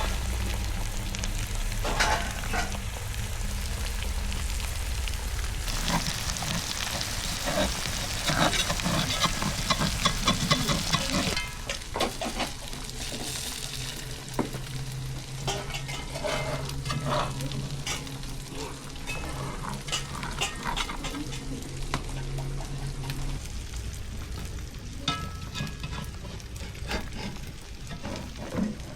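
Food frying in a pan while it is stirred, with repeated clicks and scrapes of the utensil. The sizzle swells for several seconds in the first half, with a low steady hum underneath.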